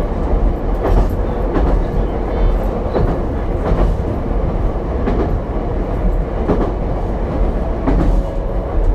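Ichibata Electric Railway 7000 series railcar 7001 running between stations, heard from inside the car: a steady rumble of wheels on rail with a knock from the rail joints every second or so.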